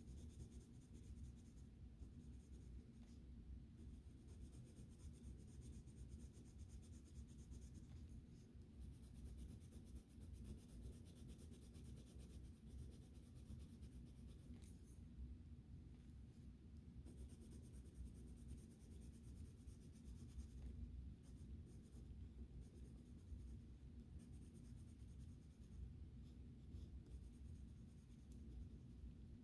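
Faint, repeated strokes of colouring on sketchbook paper, a soft high scratching that comes and goes with short pauses, over a steady low hum.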